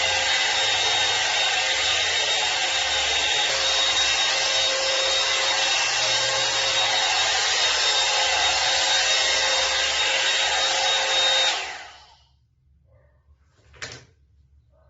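Hot air brush hair dryer running steadily with a whine, then switched off near the end and fading out. A single short click follows.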